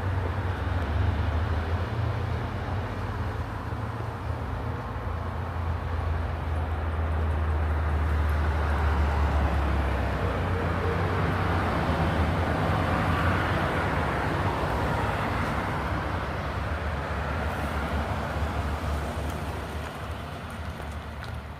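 Vehicle noise: a steady low engine rumble, with a rush of passing traffic that swells in the middle and fades away near the end.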